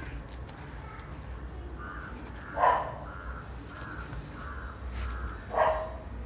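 A bird calling twice, two short loud calls about three seconds apart.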